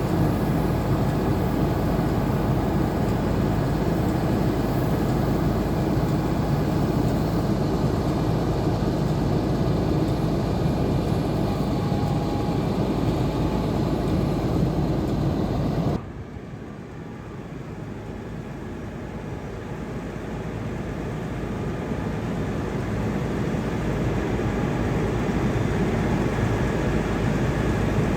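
Heavy truck engine running steadily. About two thirds of the way through the sound drops off suddenly, then builds back up gradually.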